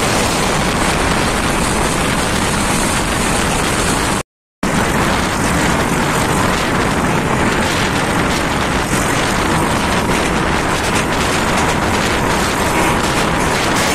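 Steady loud rush of a moving passenger train heard from an open carriage window: wheels running on the rails under a dense rush of passing air. The sound drops out to silence for a moment about four seconds in.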